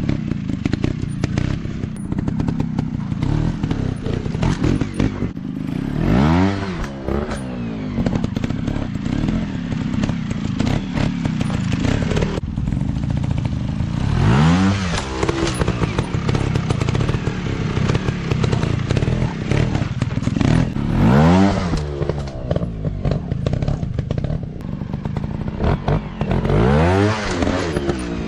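Dirt bike engines running throughout, revving up and dropping back in pitch about four times, with clatter mixed in.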